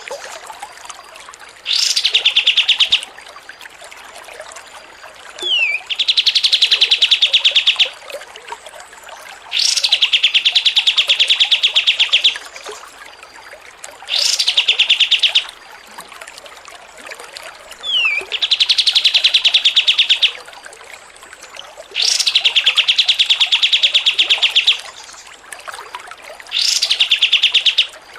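A songbird singing a series of fast, rattling trills, about seven in all, each one to two and a half seconds long with short pauses between. Twice a short falling whistle comes just before a trill.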